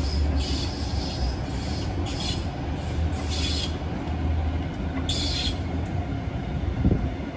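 Waratah B-set electric suburban train running past on the tracks: a steady low rumble of wheels on rail, with several short high-pitched wheel squeals. There is a single thump near the end.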